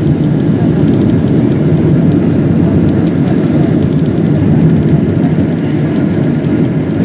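Steady low rumble inside the cabin of a Boeing 777-200ER, from its engines and airframe.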